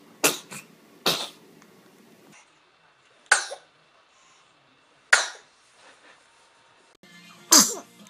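Babies sneezing: about five short, sharp sneezes, one every second or two.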